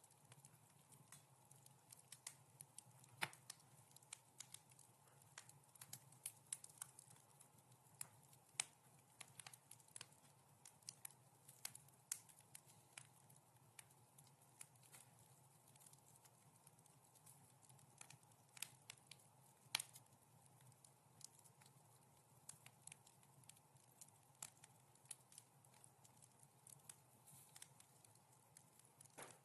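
Wood fire crackling softly: irregular sharp pops and snaps, a few louder ones, over a faint steady hiss of burning.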